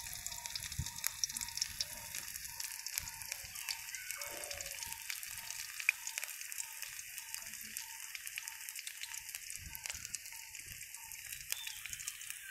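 Oil sizzling with many fine crackles in a wok as sliced onion and chillies fry over a wood-fired clay stove.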